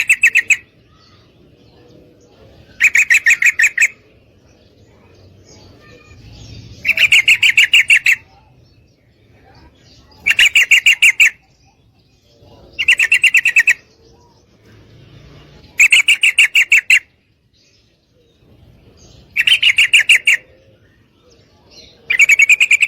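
Female yellow-vented bulbul calling: short bursts of fast, evenly repeated chattering notes, each about a second long, repeated roughly every three seconds. It is a female's call to males.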